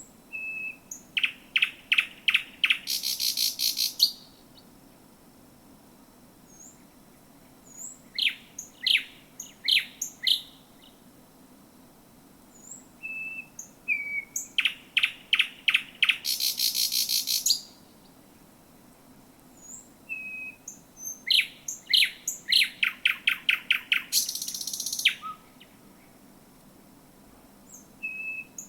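Thrush nightingale singing: four loud song phrases of rapid repeated notes, three of them ending in a harsh rattle, with pauses between them filled by soft short whistles.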